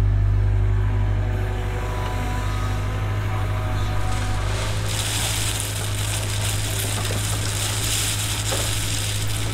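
Cat 307 excavator's diesel engine running steadily with a low hum. From about five seconds in, a loud rushing hiss joins it.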